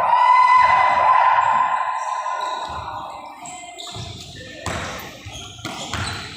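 Repeated bouncing thuds on a hard floor in a large, echoing hall, with voices in the first couple of seconds. A few louder, sharper knocks come near the end.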